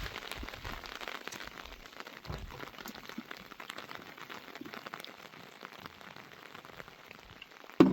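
Heavy rain falling, with a steady hiss and many individual drops ticking. A single sharp knock near the end is the loudest sound.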